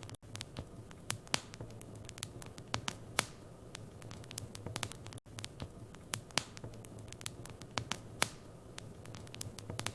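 Wood fire burning in a fireplace, crackling with irregular sharp pops and snaps over a low steady hum. Two very brief dropouts, just after the start and about five seconds in.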